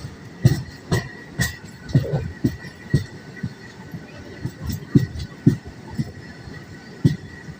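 Moving train's wheels knocking over rail joints: a run of dull thumps about two a second, over a faint steady high whine.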